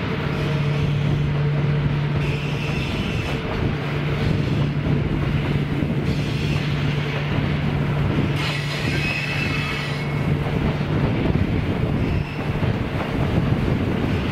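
Diesel locomotive hauling a train of tank wagons past, its engine a steady low drone over the rumble of the train. Wheels squeal on the curve twice, a couple of seconds in and again a little past the middle. The engine note drops away after about eleven seconds, leaving the rolling rumble of the wagons.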